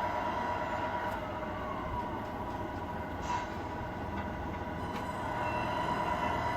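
Tamiya radio-controlled model truck running, a steady mechanical whine with a low rumble underneath.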